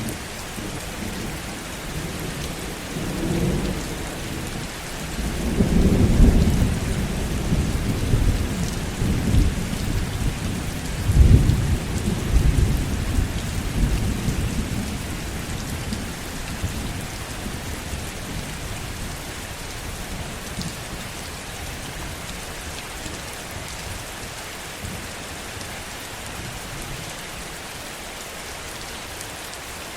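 Heavy rain falling steadily, with a long roll of low thunder that swells twice in the first half and then dies away, leaving only the rain.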